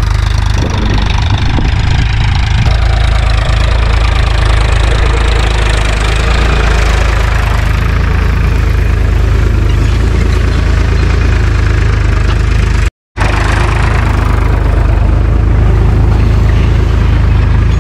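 Tractor's diesel engine running steadily nearby, a loud low rumble with no change in speed, broken by a brief total dropout about 13 seconds in.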